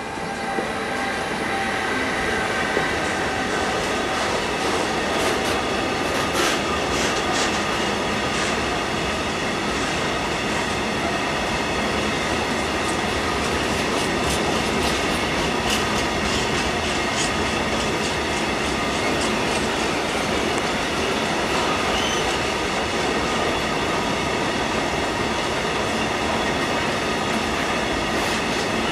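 Freight train of grain hopper wagons, hauled by a Siemens Vectron electric locomotive, rolling past at close range. It grows loud in the first second and then holds steady, with wheels clicking over rail joints and some wheel squeal.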